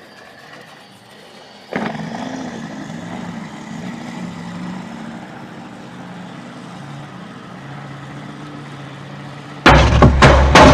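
A motor vehicle's engine running steadily, then about a second before the end a sudden series of very loud bangs, a collision.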